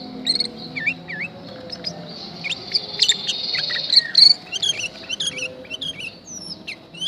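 Sooty-headed bulbul calling: a rapid run of short whistled chirps that glide up and down. A steady buzzing trill sounds under the chirps from about two and a half to four seconds in.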